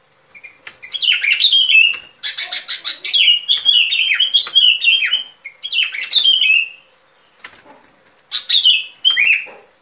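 Bulbul ('bông lau') singing: four bursts of quick, bubbling chirps that drop in pitch, with short pauses between them, played as a bird-trapping lure call.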